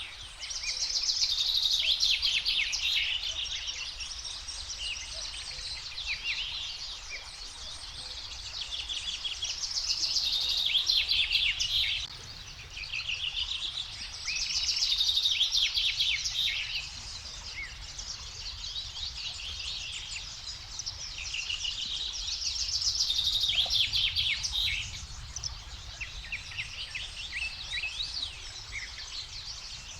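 Songbirds singing at sunrise, one loud, rapid trilled song coming back about every seven or eight seconds over steady chirping from other birds. A faint low rumble lies underneath.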